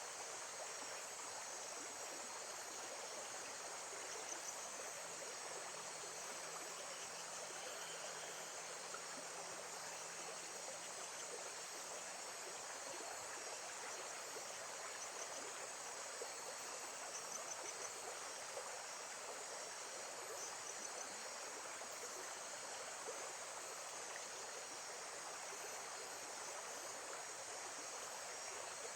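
Nature soundscape of steady flowing water, with faint high chirps that sound like insects above it.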